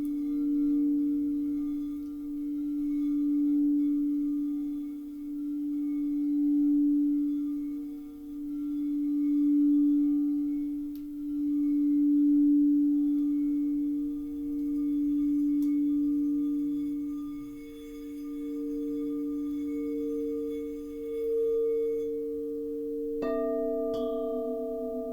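Singing bowls: one bowl sounds a steady, low ringing tone that swells and fades about every three seconds. Near the end a second bowl is struck, adding higher ringing tones over the first.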